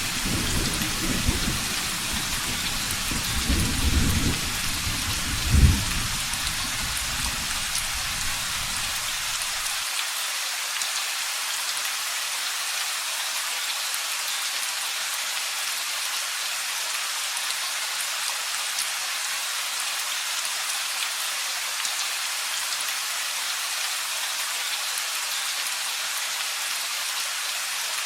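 Steady rain with rolling thunder, a sharper thunderclap about five and a half seconds in. The thunder stops abruptly about ten seconds in, leaving only the steady rain.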